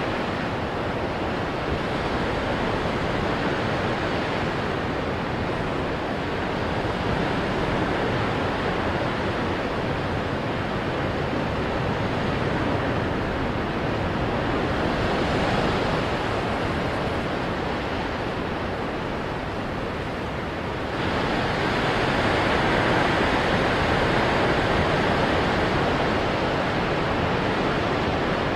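Ocean waves breaking on rocks: a continuous rush of surf that swells and eases, then turns suddenly louder and brighter about three-quarters of the way through.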